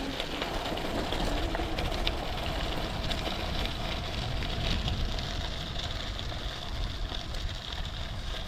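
Wind rushing over the microphone and bicycle tyres rolling on a rough trail while riding, with a few faint rattling clicks.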